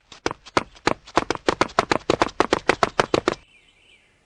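A fast, even run of sharp knocks, about eight a second, stopping about three and a half seconds in.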